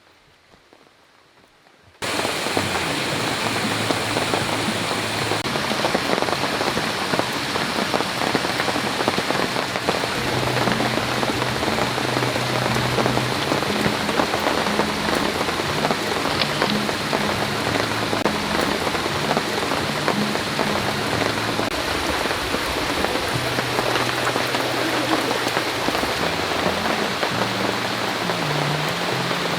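Heavy rain pouring steadily as a dense, even hiss, starting abruptly about two seconds in after near silence.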